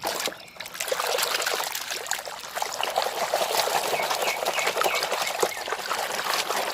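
Water pouring and splashing steadily over muddy toys as they are washed clean.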